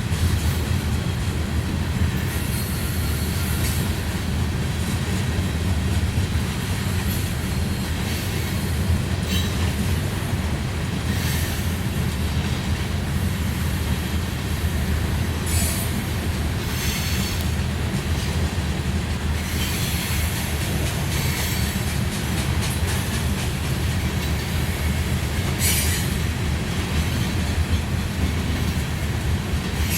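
Passing train's cars rolling by with a steady low rumble. Short high-pitched wheel squeals come and go every few seconds.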